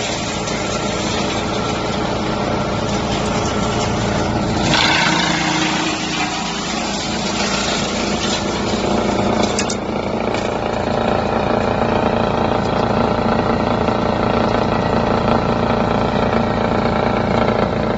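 Drum wood chipper running with a steady mechanical drone, with a brief louder burst of noise about five seconds in and a couple of sharp clicks around ten seconds.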